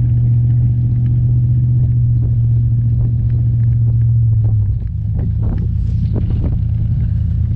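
Pickup truck engine running with a steady low drone while towing sleds. About five seconds in the drone drops off as it eases, and a few scattered knocks and bumps follow.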